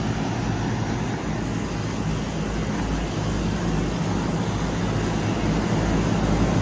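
Lennox air conditioner outdoor unit running, a steady machine hum with a low drone and a fan's rushing noise, getting a little louder near the end.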